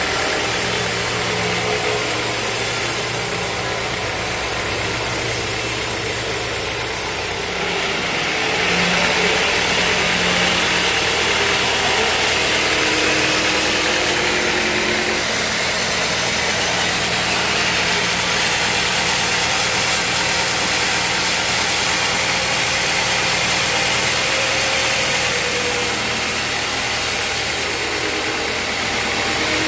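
Band sawmill machinery running with a steady mechanical drone; a louder hiss joins it about eight seconds in and carries on.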